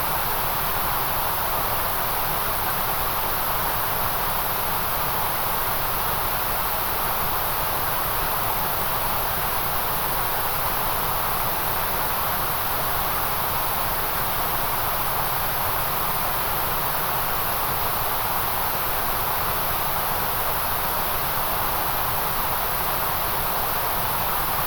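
Steady, unbroken electronic white noise, a constant hiss with no changes or events.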